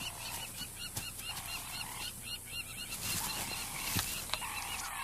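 Wildlife ambience: a rapid, even series of short high chirps, about four or five a second, from a small calling animal.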